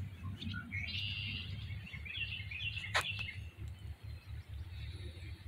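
Small birds chirping and twittering in short phrases over a low outdoor rumble, with one sharp click about three seconds in.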